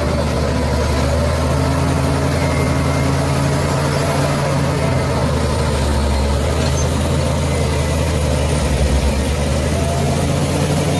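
Heavy diesel engine of a bulldozer running steadily, a deep even drone.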